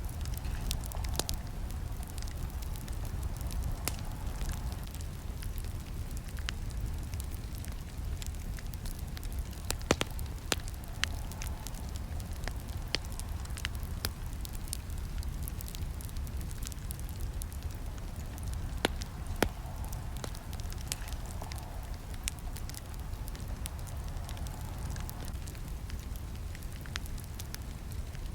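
Campfire burning with a steady low roar and scattered sharp crackles and snaps of burning wood. A few louder pops come about ten seconds in and again near twenty seconds.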